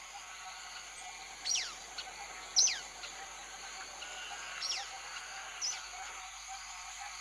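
Lesser kiskadees giving four sharp, high calls, each sweeping steeply down in pitch, the second one the loudest. These are the distressed calls of the kiskadee family while a toucan raids their nest. Steady background hiss throughout.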